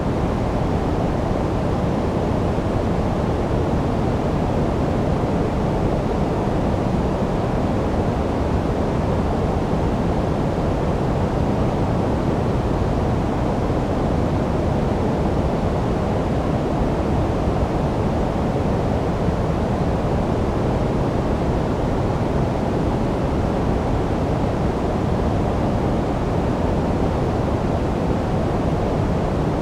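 Steady electronically generated sleep noise: an even hiss, heavier in the low and middle range than in the treble, with no swells or changes.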